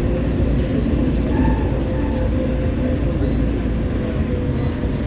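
Inside a CAF Urbos 3 tram car running between stops: a steady low rumble of wheels on rail with a faint, steady whine above it.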